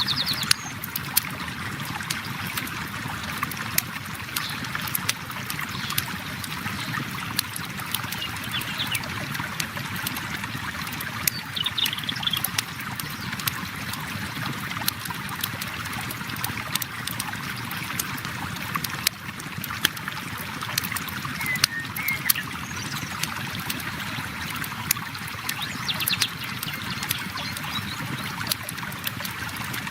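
Flowing river water running steadily, with a wood campfire crackling in irregular sharp pops over it and a few faint high chirps now and then.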